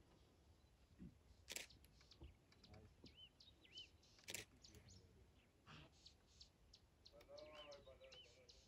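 Near silence with faint bird chirps: a short arched call repeated several times, among scattered soft clicks.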